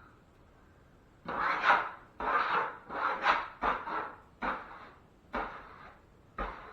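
Repeated rubbing strokes of a drywall tool over joint compound, about seven, starting a second in: the first few long and close together, the later ones shorter and further apart.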